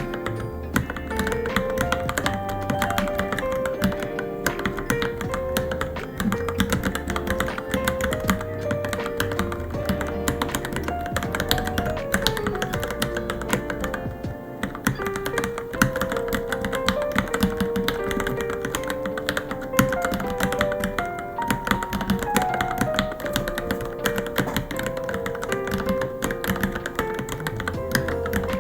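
Steady, fast typing on a Varmilo Minilo keyboard, a dense run of irregular key clicks, over background music with a melody.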